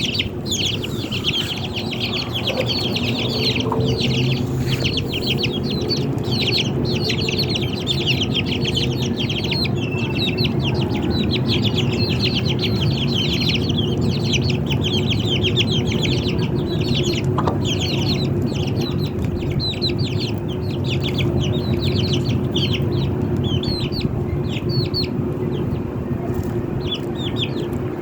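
Chickens clucking, with constant rapid, high-pitched chirping throughout.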